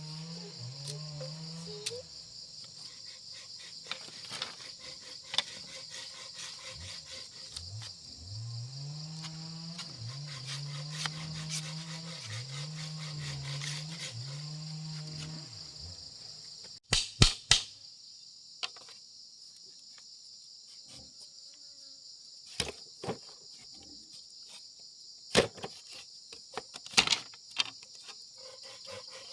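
Steady, high-pitched chorus of insects such as crickets. Sharp knocks break through it: a quick cluster just past halfway, then a few single taps near the end.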